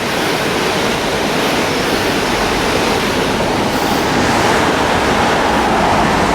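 Swollen floodwater rushing through river locks: a loud, steady rush of fast-flowing water.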